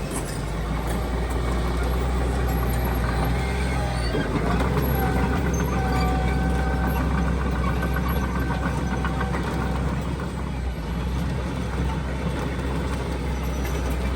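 Diesel engine of heavy earthmoving machinery running steadily under load, a deep even drone, with a faint higher wavering tone between about four and nine seconds in.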